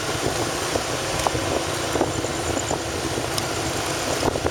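Motorcycle riding at steady speed: engine running with road and wind noise on the rider's microphone.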